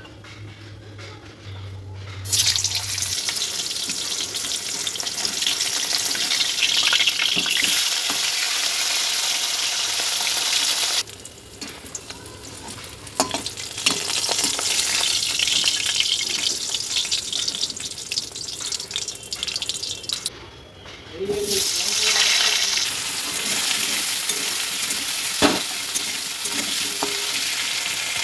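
Fish pieces frying in hot oil in a metal wok: loud sizzling that begins about two seconds in, drops off twice and surges back each time, with a few clicks of a spatula against the pan.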